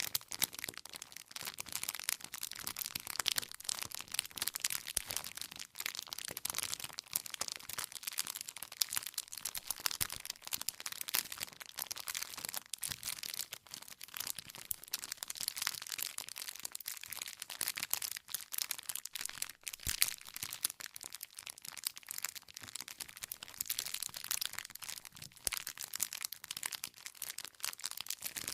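Campfire with wood burning, a continuous dense crackling of small pops and snaps, with a few sharper pops such as one about two-thirds of the way in.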